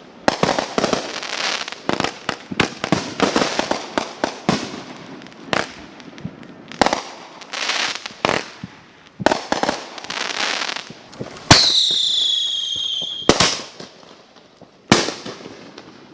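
Consumer fireworks going off: a rapid string of sharp bangs and crackling. About two-thirds of the way through comes a loud bang followed by a high, slightly falling whistle from a whistling firework, then two more single bangs.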